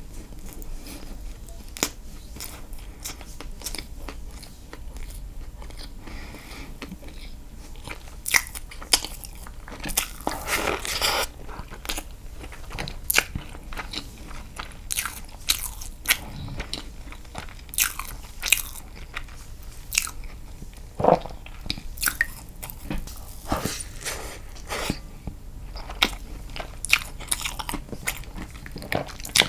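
Close-miked eating: castella sponge cake dipped in milk being bitten and chewed, with many irregular wet mouth clicks and a longer rustling stretch about ten seconds in.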